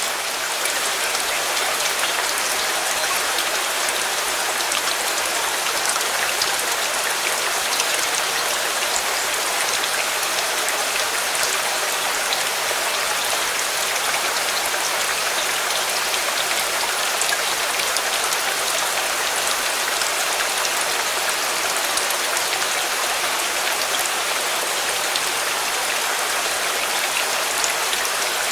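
Steady, even rainfall with drops pattering on a surface, with no let-up.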